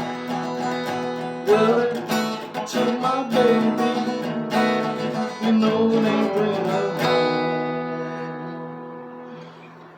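Acoustic guitar strumming the end of the song. A final chord is struck about seven seconds in and rings out, fading away.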